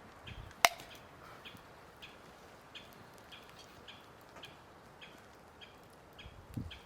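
A bird calling over and over, short high chirps about twice a second, with one sharp snap a little after the start.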